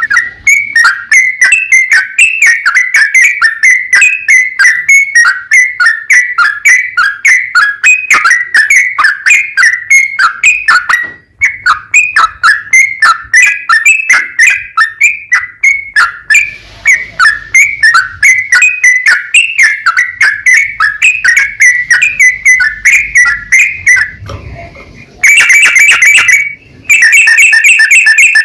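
Yellow-vented bulbul (trucukan) singing a long unbroken run of rapid chirping notes, about four a second. The song breaks off briefly near the end and then resumes louder.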